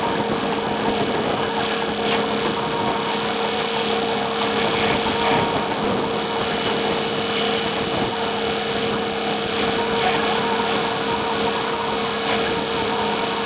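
Tractor running steadily under load, pulling a 2022 New Holland baler that is baling cane hay. There is a constant hum with two held tones and irregular rattling from the baler's workings.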